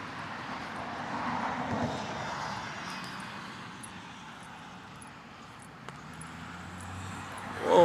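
Engine noise that swells over the first couple of seconds and then slowly fades, with a low hum coming up near the end.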